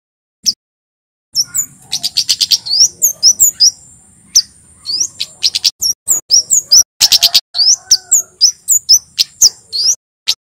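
Male kemade jawa singing. After a short single chirp, it bursts into a dense run of rapid, sharp, high chirps and quick rising flicks, with a thin steady high tone behind.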